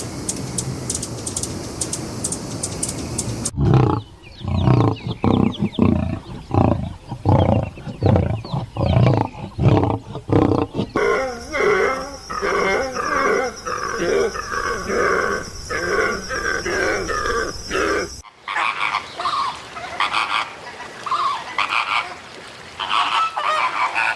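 Farm animal calls in several back-to-back clips, changing abruptly at each cut: a few seconds of steady noise, then a run of rapid repeated calls, and in the last part higher-pitched calls.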